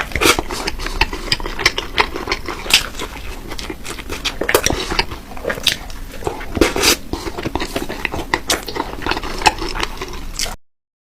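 Close-up ASMR mukbang eating: irregular crisp bites, crunches and wet mouth clicks of someone chewing food, with a clink of cutlery here and there. It cuts off suddenly near the end.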